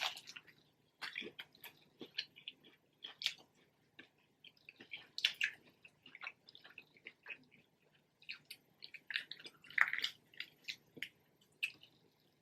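Close-miked chewing of crispy spicy fried chicken: irregular crunches, crackles and small wet mouth sounds, with a few louder crunches about five seconds in and near ten seconds.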